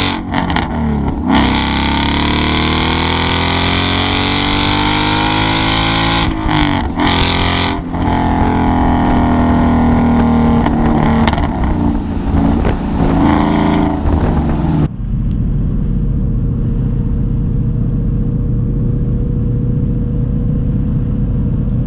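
Ford Mustang with an aftermarket exhaust accelerating hard through the gears. The engine note rises, breaks briefly twice at a shift, climbs again, then drops at about fifteen seconds to a steady low drone as the throttle is lifted to cruise.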